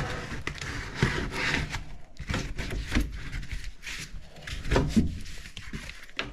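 Scraping and rubbing with several sharp knocks: hands-on work handling parts and panels during an air handler install.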